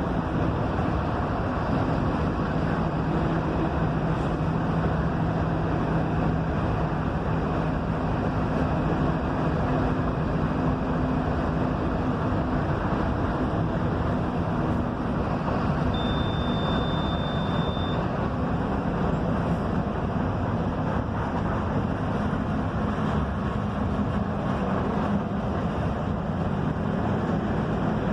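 Mercedes-Benz OF-1721 bus's diesel engine running steadily under way, with a constant drone and road rumble. A single high beep lasting about two seconds sounds just past the middle.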